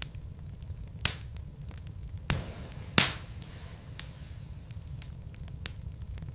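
Wood fire in a fireplace crackling, with a handful of sharp pops from the burning logs, the loudest about three seconds in. Under them runs a steady low rumble of the flames.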